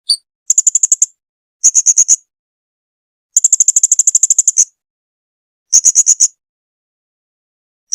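Blue-crowned hanging parrot (serindit) calling: runs of rapid, very high-pitched shrill notes, about ten a second, each run lasting half a second to over a second, with short silent gaps between runs.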